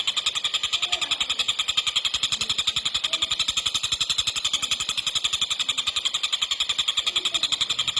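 A tengkek buto, a kingfisher, calling in a fast, tightly packed rattle of rapidly repeated high notes, kept up without a break.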